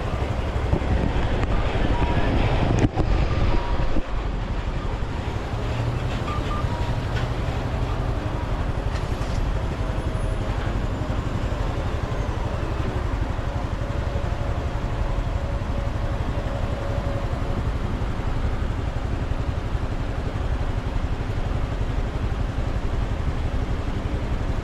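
Motorcycle engine running steadily while riding, heard from on the bike with wind rushing over the microphone.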